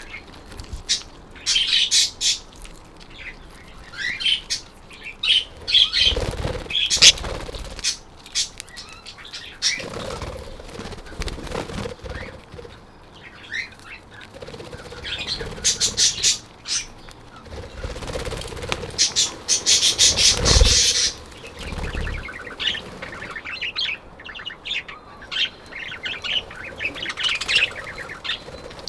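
A flock of budgerigars chattering in short, high chirps throughout, with wing flapping and a few low thumps, around 6–7 seconds in and again near 21 seconds.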